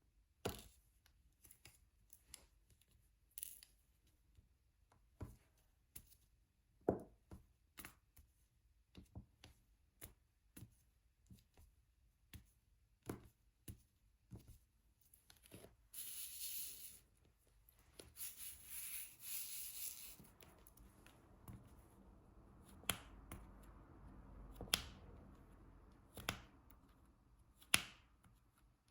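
Diamond painting drill pen pressing resin drills onto the sticky canvas: scattered sharp little clicks and taps, a few a second at irregular intervals. Two short hissy rustles come about 16 and 18 to 20 seconds in.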